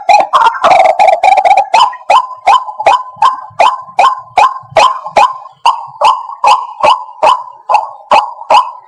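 White-breasted waterhen calling: a fast, dense run of harsh notes for the first second or two, then a steady series of sharp, clipped notes at about three a second. It is a recorded call of the kind played as a trapping lure.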